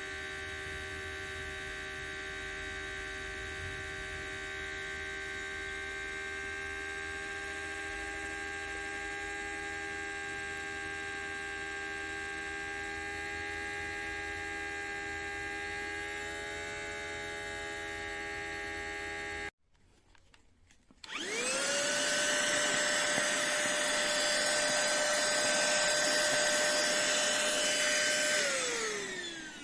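HOMEKANE cordless handheld vacuum cleaner's motor. It runs with a steady whining hum, cuts out abruptly about two-thirds of the way through, then is switched on again: it spins up with a rising whine, runs louder and steady, and winds down with a falling whine near the end.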